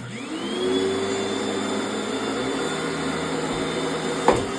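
Late-1980s Panasonic Jet Flow upright vacuum cleaner switched on: its motor spins up with a rising whine within about half a second, then runs at a steady pitch. A single sharp knock comes near the end.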